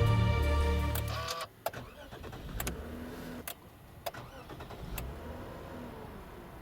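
Background music stops about a second and a half in, leaving the Toyota Mark X GRX130's 2.5-litre V6 running quietly, with a few sharp clicks.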